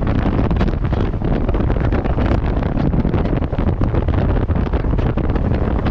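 Wind rushing over the microphone held out of a moving passenger train's window, over the steady running noise of the train's wheels on the track.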